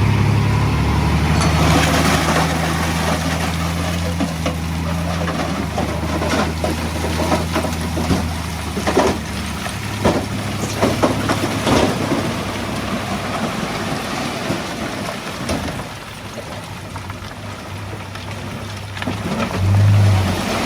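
Heavy diesel machinery engine running steadily, with a run of sharp knocks and clanks about nine to twelve seconds in. The engine drops back around sixteen seconds and picks up again near the end.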